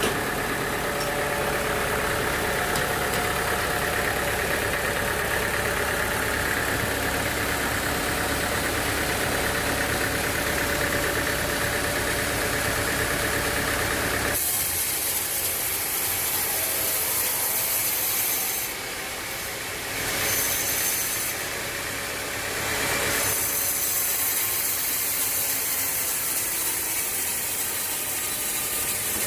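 Sawmill machinery: an engine running steadily, then, about fourteen seconds in, an abrupt change to a higher hissing mechanical noise that drops away briefly twice.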